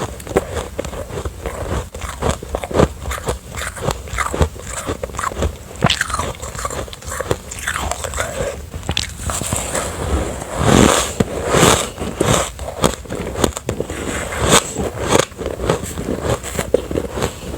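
Close-up biting and chewing of refrozen ice with a soft, sandy texture: a steady run of crisp crunches, with a louder, denser flurry of bites about two thirds of the way through.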